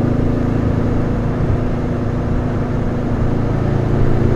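Porsche 356's carbureted flat-four engine running steadily as the car drives along.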